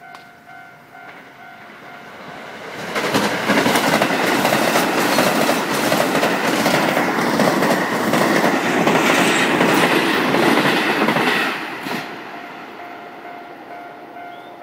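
Electric commuter train passing close by at speed, its wheels clattering over the rail joints. The noise swells up about three seconds in, holds for some eight seconds, and then fades. Before and after the train, a repeating electronic warning chime sounds in short pulses.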